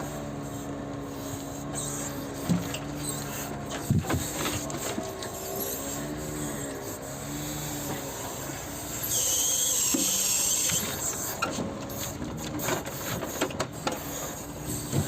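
KAMAZ truck's engine running with its Palfinger hydraulic loader crane at work, the pitch rising and dipping as the load on the crane changes. Scattered knocks throughout, and a loud hiss for about two seconds near the middle.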